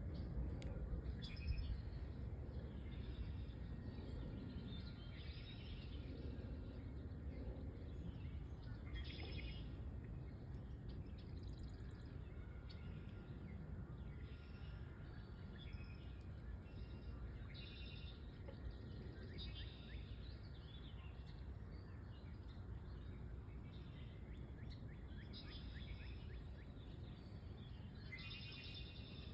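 Marsh ambience: a steady low rumble with scattered short calls of small birds, several clustered toward the end.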